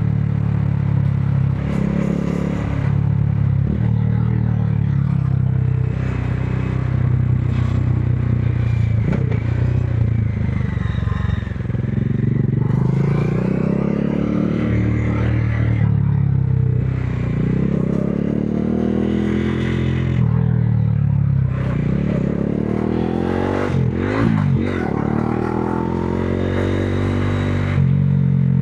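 Modenas Dominar 400's single-cylinder engine heard from the rider's helmet while riding. The pitch climbs and falls back several times as the throttle is opened and closed, with the steepest rises in the second half.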